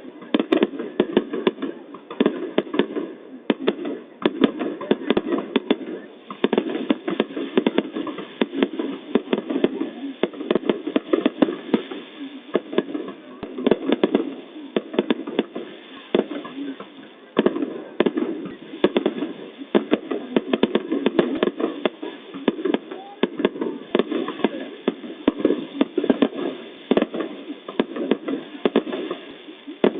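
Fireworks going off in a dense, irregular string of sharp bangs and crackles, several a second, with voices underneath.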